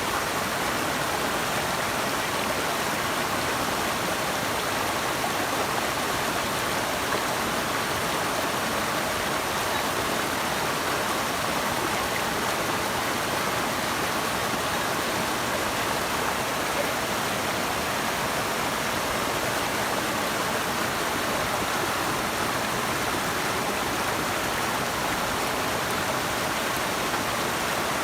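Running water rushing steadily in a forest stream, an even unbroken hiss with no change in level.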